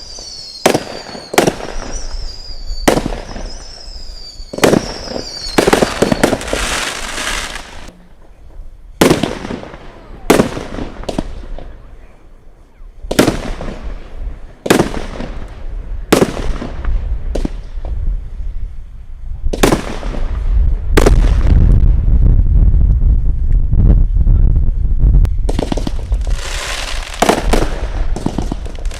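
Consumer firework cakes firing a long run of sharp bangs, one every second or two. Several early shots trail a falling whistle, a heavy low rumble builds from about twenty seconds in, and a dense crackle fills the last few seconds.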